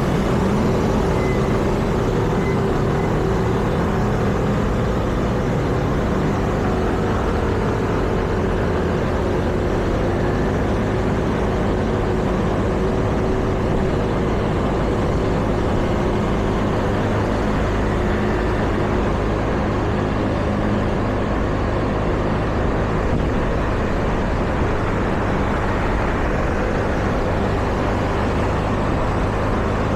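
City street traffic: a steady, continuous wash of motor vehicle engine and tyre noise.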